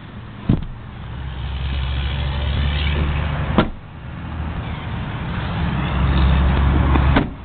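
Cummins 5.9-litre turbo-diesel inline-six in a 2005 Dodge Ram 2500, running with a steady low hum. Sharp clicks come about half a second in, near the middle and just before the end.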